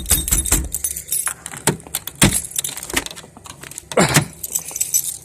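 Keys jangling, with a string of sharp clicks and knocks, and a short falling sound about four seconds in.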